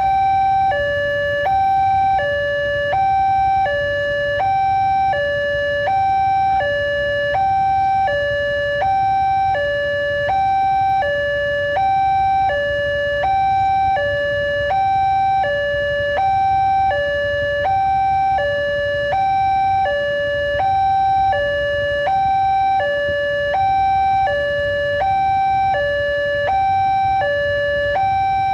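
Railway level-crossing warning alarm sounding a steady electronic two-tone signal, switching between a high and a low note about twice a second. It signals that the crossing gates are closing for an approaching train.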